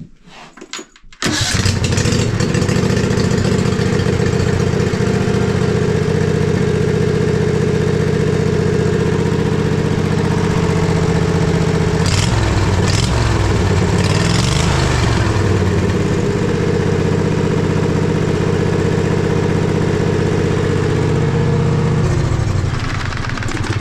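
Husqvarna riding mower engine catching about a second in and running steadily and evenly, its speed wavering briefly in the middle and dropping near the end. It runs smoothly now that water and rust have been cleaned out of the carburetor and the clogged fuel filter has been replaced.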